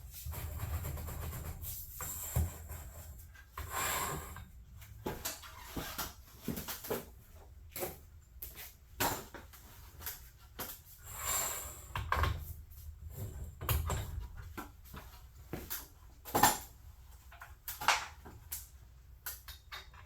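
Irregular clicks and knocks of hands and tools at work, with a few short scraping sounds and one sharper knock about two-thirds of the way through.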